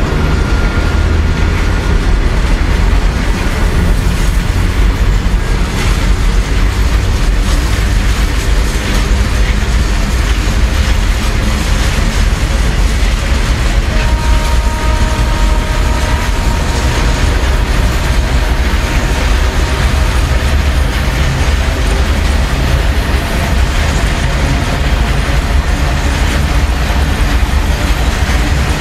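Freight train's open steel wagons rolling past close by. A steady heavy rumble of wheels on rails with continuous clatter over the rail joints, unbroken throughout.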